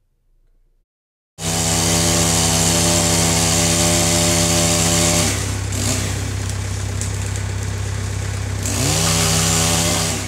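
Two-stroke chainsaw running at high revs, cutting in suddenly about a second in. It drops back toward idle midway and revs up again near the end.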